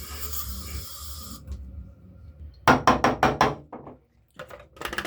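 A quick run of sharp knocks or cracks, about six in under a second, then a few more, and a faster rattling run near the end, after a steady hiss that stops early on.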